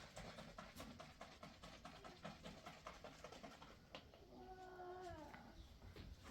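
Near silence with faint scattered clicks, and about four seconds in one faint drawn-out animal call lasting about a second that falls in pitch at its end.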